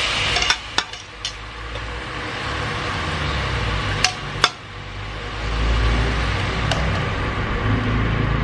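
Kitchen utensils and cookware being handled: six sharp clinks and knocks (three in the first second or so, two about four seconds in, one near seven seconds) over a steady low background hum.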